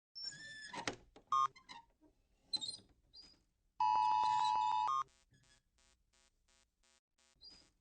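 Electronic music and sound effects: a few short synthesized blips and chimes, then a loud held chord of about a second that gives way to a faint, quickly repeating echo.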